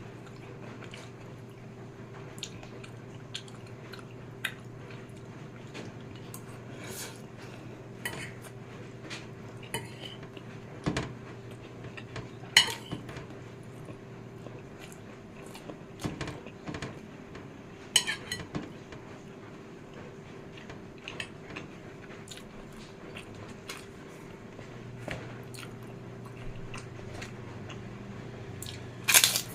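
Eating sounds: cutlery clicking against a plate now and then, with soft chewing of fried noodles in between, over a steady low hum.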